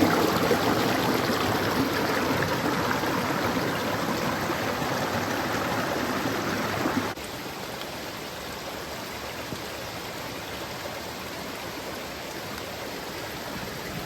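Steady rush of flowing water, dropping suddenly to a quieter, steady level about halfway through.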